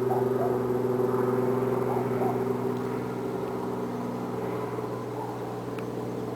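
Helicopter running, a steady drone of several held tones that eases down slightly partway through.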